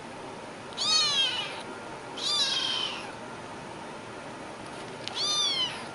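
A cat meowing three times, each meow a high call that falls in pitch.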